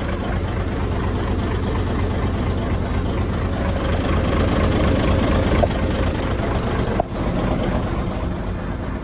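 Mitsubishi Super Great heavy truck's diesel engine idling steadily, with a brief dip about seven seconds in.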